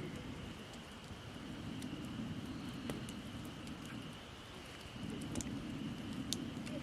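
Wood campfire of gathered branches burning, with a steady low rush of flame and scattered sharp crackles and pops from the burning wood.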